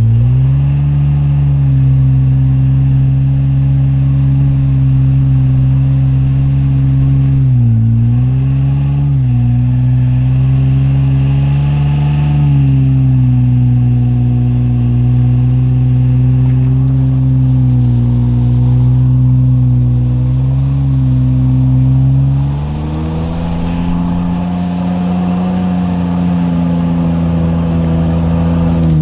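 Truck engine running steadily under load while driving a forest road, its pitch dipping briefly twice about eight seconds in and stepping up, a little quieter, about 23 seconds in.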